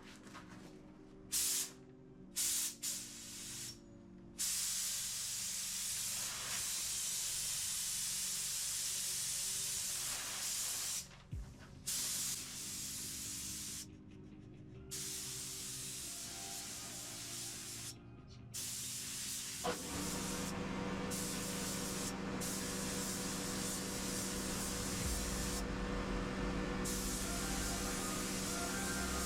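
Paint spray gun hissing as colour is sprayed onto a plastic bumper: a couple of short trigger blips in the first few seconds, then long steady passes broken by brief pauses.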